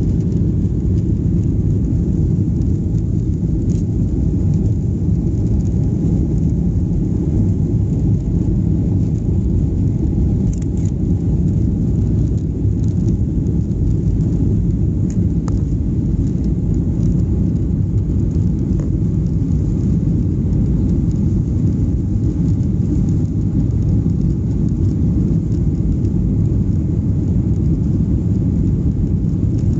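Steady low rumble heard inside the cabin of a Boeing 737-800 airliner, from its engines and the airframe, holding an even level throughout.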